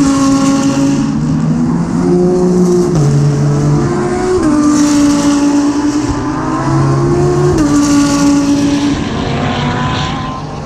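GT3 race car heard from onboard at racing speed. The engine note holds steady, then jumps to a new pitch every second or two as the gears change. Near the end the engine drops briefly in level and pitch as the driver lifts off.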